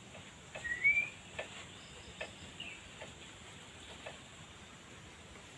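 Forest ambience: a bird gives a short rising chirp about a second in, over a steady high insect drone. Faint sharp ticks repeat a little under a second apart.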